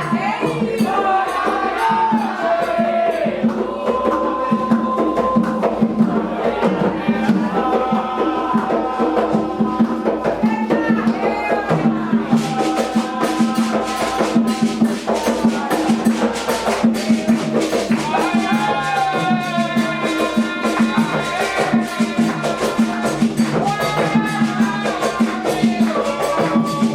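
Candomblé ritual music for Xangô: a steady rhythm of hand drums and rattling percussion under voices singing a chant.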